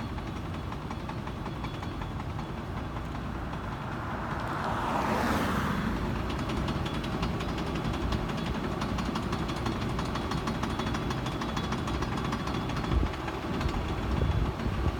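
Ford Expedition driving, with a steady low rumble and, from about seven seconds in, a fast metallic clicking from the driveline, the sign of worn U-joints. A rush of noise swells and fades about five seconds in.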